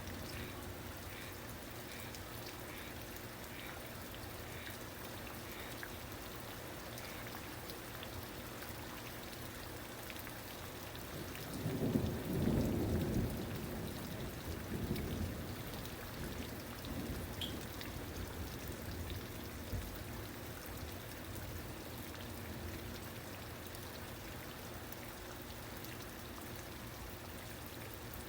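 Steady rain falling, with a low rumble of thunder about twelve seconds in that swells and fades away over a few seconds.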